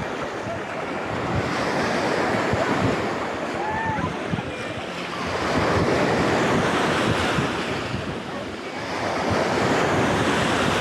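Sea waves breaking and washing up the beach, the surf swelling roughly every three to four seconds, with wind buffeting the microphone.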